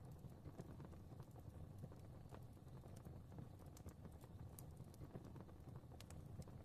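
Fire crackling faintly: a steady low rumble of flames with small irregular pops and snaps scattered throughout.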